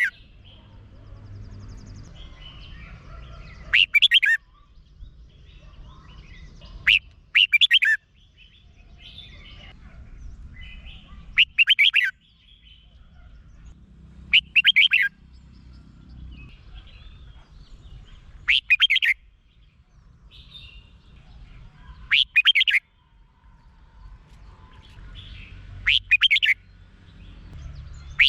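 Red-whiskered bulbul singing: short, loud, warbling phrases repeated about every three to four seconds, over a low background rumble.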